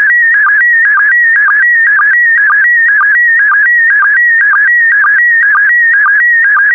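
PD120 slow-scan television (SSTV) image signal: a loud, continuous warbling tone that jumps rapidly in pitch as it encodes picture lines, with a short lower sync blip about twice a second marking each new pair of scan lines.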